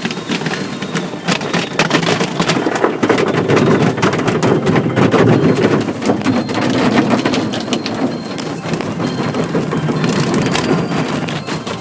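Water pattering heavily and densely, building to its loudest in the middle and easing near the end.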